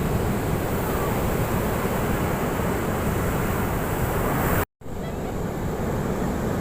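Ocean surf breaking on a beach: a steady wash of waves with a heavy low rumble. Near the end it cuts out completely for a split second, then resumes slightly quieter.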